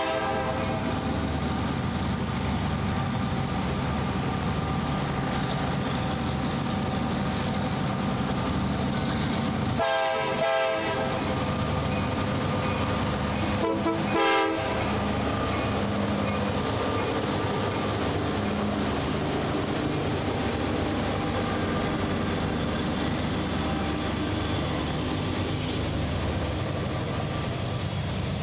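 CSX SD70AC diesel locomotive rolling past with its engine running, sounding its horn in two short blasts about ten and fourteen seconds in, just after a longer blast ends at the start. Freight cars, mostly tank cars, follow, rolling by with steady wheel and rail noise.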